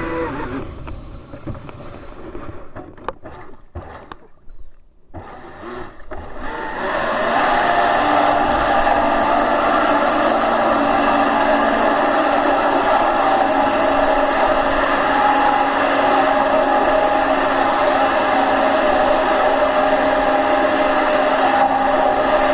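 Electric jet kayak running under power: a steady motor whine over rushing water. The sound falls away for a few seconds near the start, then comes back up about seven seconds in and holds steady.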